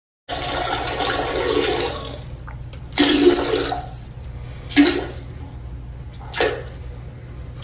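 Water rushing and draining, loudest in the first two seconds, with three short louder sounds about three, five and six and a half seconds in over a steady low hum.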